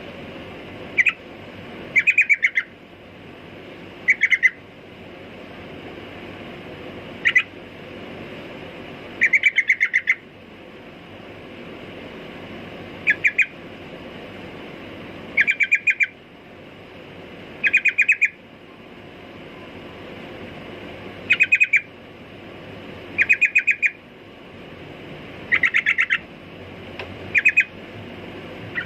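Yellow-vented bulbul (trucukan) calling: short bursts of quickly repeated notes, each well under a second, coming every two seconds or so over a steady background hiss.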